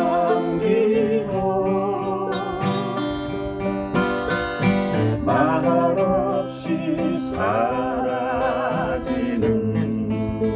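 Music: singing with acoustic guitar strumming, the voice held on wavering notes.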